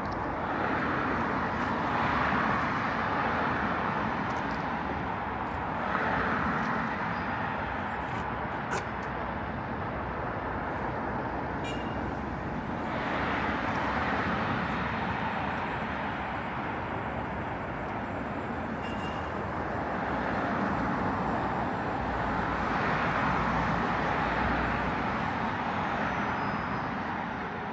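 City street traffic: a steady hum of road noise that swells a few times as vehicles pass, with a thin high whine for a few seconds near the middle.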